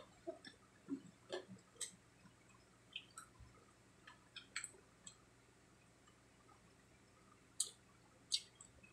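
Mouth sounds of people eating crispy-fried pork cheek and rice by hand: quiet chewing with a scatter of short, wet lip smacks and clicks, and two sharper smacks near the end.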